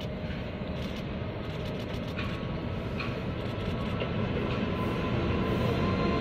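Electric locomotive hauling passenger coaches on an approach, its rumble growing steadily louder as it nears. A faint steady high tone joins about two seconds in.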